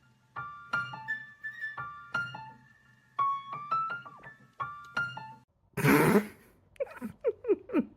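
Piano notes struck one or a few at a time at an uneven pace, each ringing and dying away. About six seconds in comes a short rushing noise, then a quick run of short squeaks that fall in pitch.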